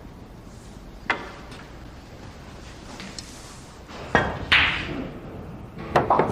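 Billiard balls clicking on a pool table: a cue striking the cue ball and balls knocking together, a few sharp clicks with the loudest pair about four seconds in.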